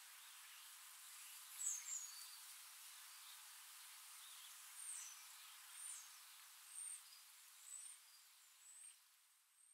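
Faint steady outdoor hiss with a small bird's high, thin chirps: a louder double call about two seconds in, then single chirps about once a second from around five seconds in. Everything fades out at the end.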